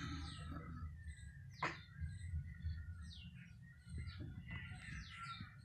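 Small birds chirping faintly, a string of short, quick, falling chirps, over a low steady hum.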